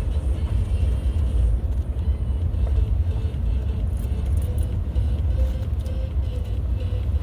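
A car driving at a steady pace: a constant low rumble of engine and road noise.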